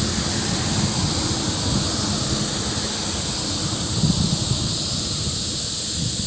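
Wind buffeting the microphone in a steady low rumble, over the constant rushing hiss of a river.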